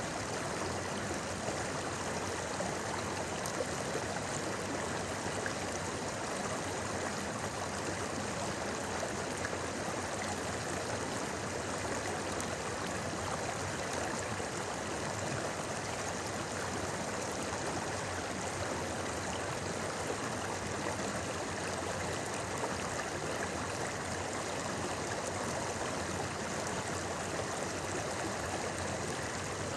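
A shallow river flowing and babbling over stones, a steady rushing and gurgling of water.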